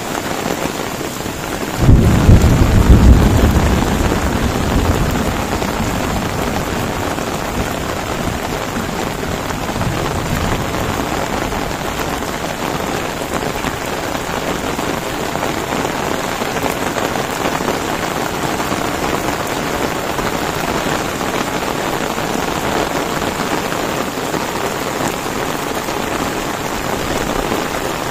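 Heavy rain pouring steadily onto a paved lane and the grass around it. About two seconds in, a loud low rumble of thunder breaks in and fades over several seconds, and a fainter rumble follows near ten seconds.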